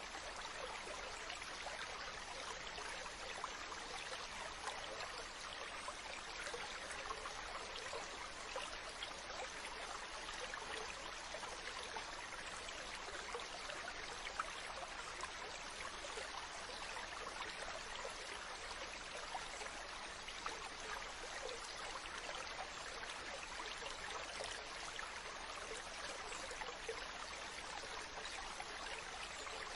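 Mountain stream running steadily over rocks, an even rush of water with small splashes and trickles flickering through it.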